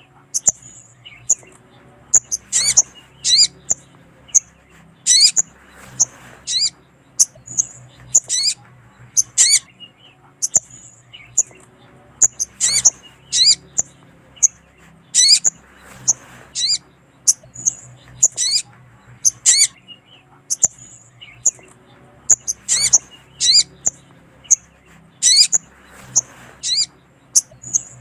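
Crimson sunbird (sogon) calling: sharp, high chirping notes in quick clusters that repeat every couple of seconds, over a faint steady low hum.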